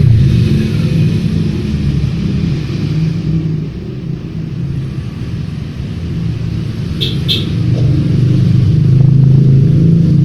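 Metal lathe running with a steady low hum that dips midway and swells again near the end. Two quick clicks come about seven seconds in.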